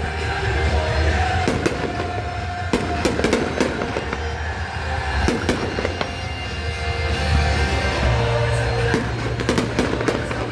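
Fireworks exploding in a string of irregular sharp bangs and crackles, over music with held tones and a heavy bass playing throughout.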